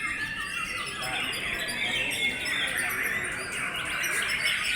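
Many white-rumped shamas singing at once in competition, a dense tangle of overlapping quick chirps and whistled phrases.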